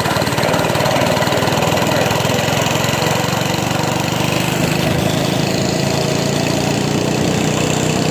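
Mini bike's small single-cylinder engine running steadily at a low, even speed, like an idle.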